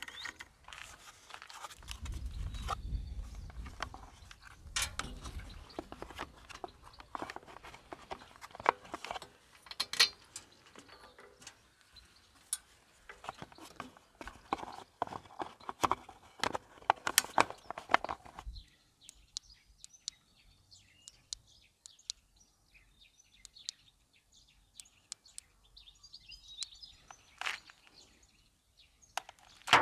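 Hand work on a Yamaha Jog scooter engine: a screwdriver on the cooling fan's bolt, then the plastic fan shroud being fitted, giving scattered clicks, knocks and scrapes, with a low rumble in the first few seconds. The handling noise stops about two-thirds of the way through, leaving only a few faint ticks.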